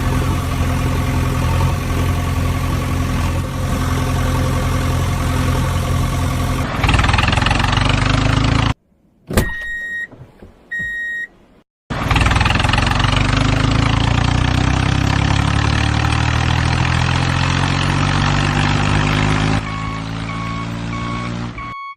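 Heavy vehicle engine sound, a truck or backhoe loader, running steadily and then growing louder and rougher. After a break with a click and two short beeps, the engine starts up again, rising in pitch as it revs. A repeating beep comes in near the end.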